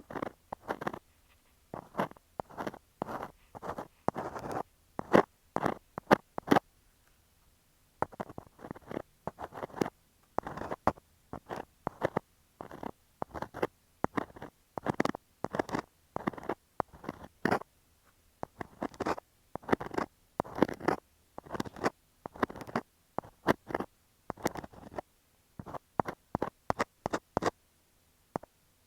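An ear scaler scraping and scratching over an earphone microphone: quick runs of short rasping strokes, with a pause of about a second and a half about seven seconds in.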